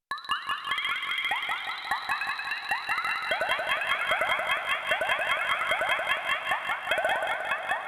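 Nord Drum 3P synth drum preset playing a fast rhythm pattern of short electronic hits, each falling sharply in pitch, many a second. It starts right after a brief silence.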